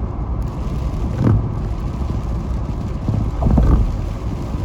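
Steady low rumble of a car driving on a snow-covered interstate, heard from inside the cabin, with two brief louder sounds about a second in and about three and a half seconds in.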